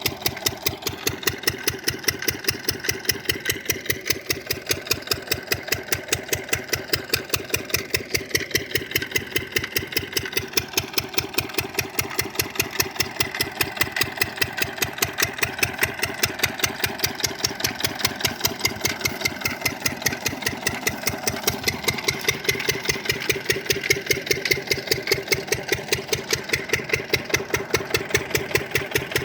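Field Marshal 10 hp single-cylinder diesel engine running steadily under load, driving a 4-by-3 water pump. It beats with an even, regular chug that does not change.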